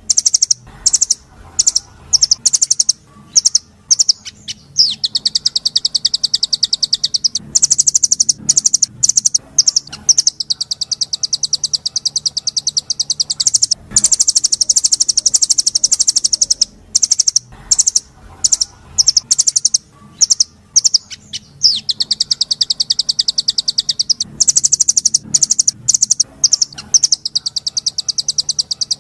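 Small songbird singing very rapid, high, buzzy trills, several seconds long, broken up by short chips and brief pauses. The same sequence of phrases comes round again about every 14 seconds, as a looped recording does.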